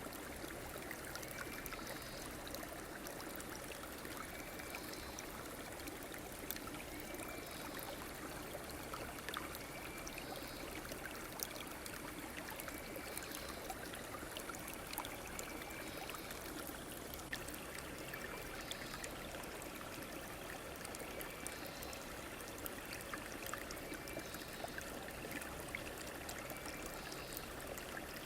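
Stream water flowing and trickling steadily, with a faint short high call repeating every second or two.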